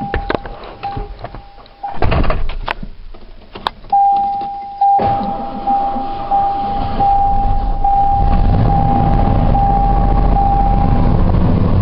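1989 Ford F-150 cold start under a steady beeping dashboard warning chime: a short burst of starter cranking about two seconds in, then the engine catches about five seconds in and settles into a steady cold idle. The chime stops near the end.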